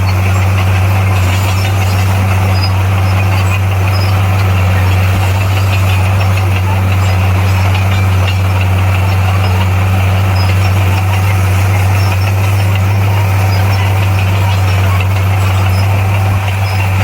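Komatsu bulldozer's diesel engine running at a steady speed, with a loud, constant low hum.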